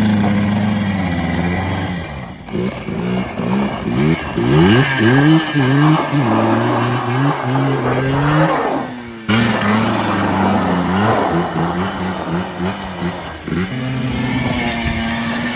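Two-stroke ATV engine running at steady revs, then revving up and down hard several times in quick succession. It breaks off abruptly about nine seconds in and comes back at steady revs, revs a few more times, then settles into a steady drone near the end.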